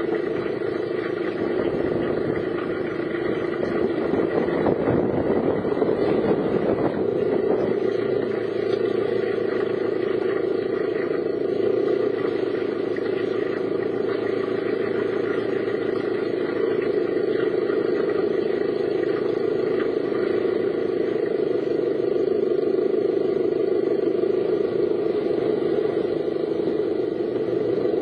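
Car driving along: steady engine and road noise, a little louder for a few seconds around the fifth second.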